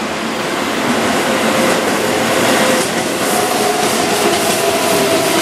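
Keihan 7200-series electric commuter train running past on curved track: a steady rumble and clatter of its wheels on the rails, with faint steady whining tones joining in about halfway through.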